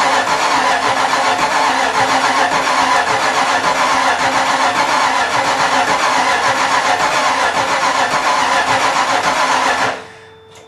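Ford 5.0 V8 being cranked by its starter on its first start attempt, turning over steadily and trying to catch without settling into a run. The cranking stops suddenly about ten seconds in.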